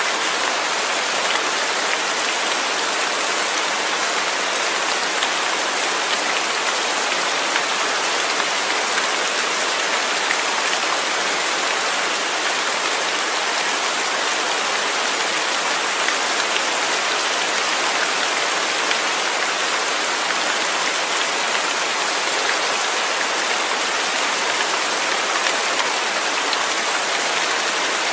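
Steady rain falling, a dense even hiss of drops on a surface with no let-up.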